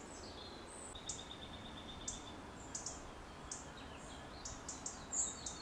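Small birds singing: repeated short, high chirps and a rapid trill about a second in, over a faint steady hiss.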